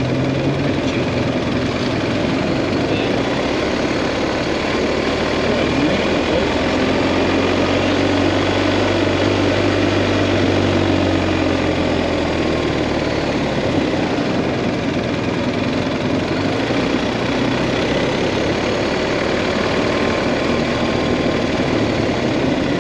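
BMW GS Adventure motorcycle engine running as it rides along, over a steady rush of road and wind noise. A deeper engine note swells and fades around the middle.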